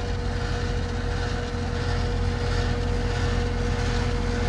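Lennox 14HPX two-ton heat pump outdoor unit running in cooling mode: a steady hum with one constant tone from its Copeland scroll compressor and the even whoosh of the condenser fan.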